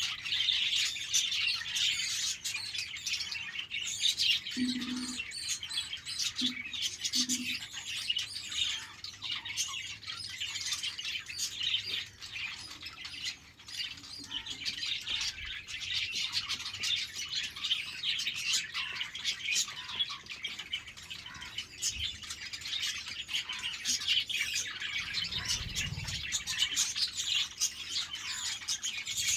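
A flock of budgerigars chirping and chattering continuously, many overlapping short high-pitched calls.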